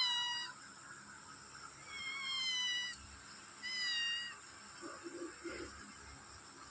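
Domestic cat meowing: three separate high-pitched meows, the first trailing off about half a second in, then two more at about two and three and a half seconds.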